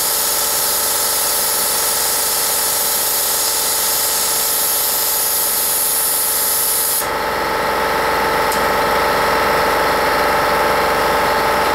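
MIG welder arc on sheet steel, a steady hissing sizzle over a constant machine hum. About seven seconds in the hiss stops abruptly, leaving a steady mechanical hum.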